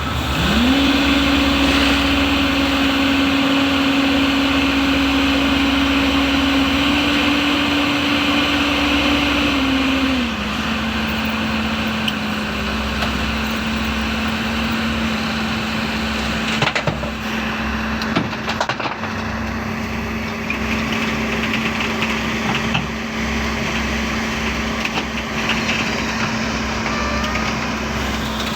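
JCB backhoe loader's diesel engine revving up and held at high speed while working, then settling to a lower steady speed about ten seconds in, over a low rumble. A few knocks and rattles come near the middle.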